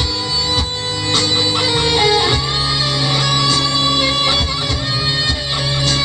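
Guitar music: an electric guitar playing a melodic lick, with steady low notes sustained underneath.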